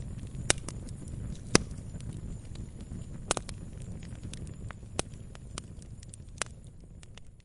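Wood campfire crackling: irregular sharp pops and snaps, a few of them loud, over a low rumble of burning, growing fainter near the end.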